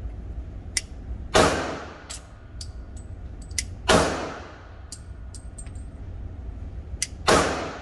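Three pistol shots from a Glock 23 in .40 S&W, spaced a few seconds apart, each a sharp crack with an echoing tail. Fainter short cracks and clicks come in between.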